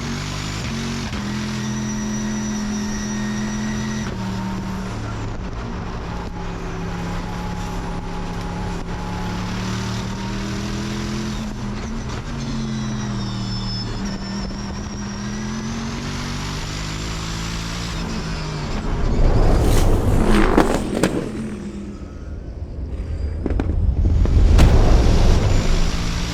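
Twin-turbo Chevrolet Corvette time-attack car's engine running, its pitch drifting slowly up and down, then two loud surges of engine and rushing noise near the end.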